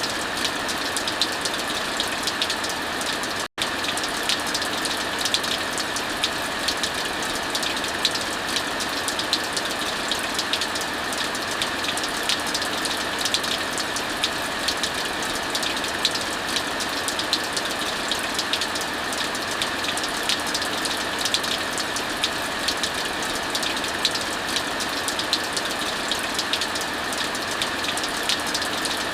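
Steady heavy rain with a fire crackling: a dense, even hiss dotted with many small sharp crackles. The sound cuts out for an instant about three and a half seconds in.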